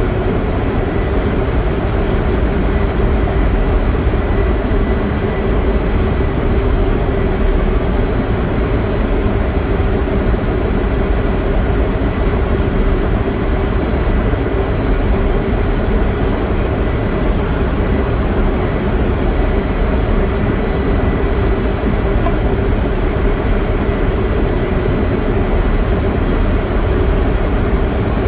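A running generator engine, giving loud, steady machinery noise with a constant deep rumble and a faint high whine that never changes.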